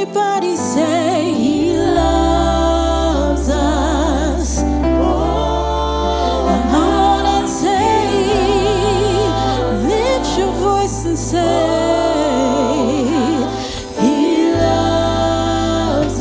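Gospel music: a sung melody with strong vibrato over long held bass notes that change about every six seconds.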